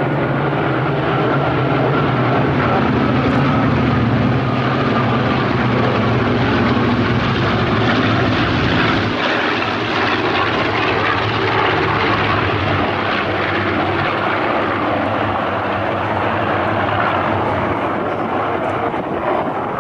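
Propeller-driven piston-engined warbirds of a large mass formation flying past with a steady, loud engine drone. The pitch sinks and the low drone thins out about halfway through as the aircraft pass and move away.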